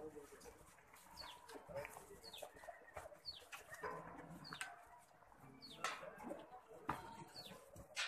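A bird chirping faintly and repeatedly: short notes that fall in pitch, at irregular intervals.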